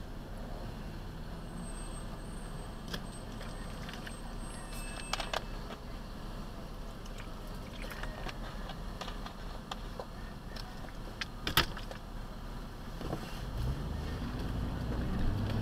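Truck engine running at a low idle, with scattered clicks and one sharp knock; near the end the engine note rises and grows louder.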